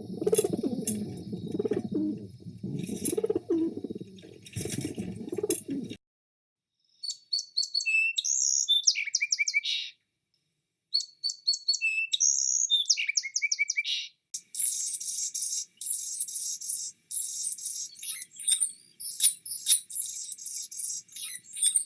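A sequence of bird calls and songs with short silences between them. First comes a low, pulsing call for about six seconds. Then a short high song falling in pitch plays twice, and near the end comes a run of fast, high chattering.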